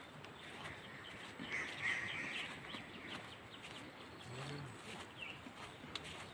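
Wild forest birds calling: a cluster of high chirping calls about one and a half seconds in, and a shorter call a little after five seconds.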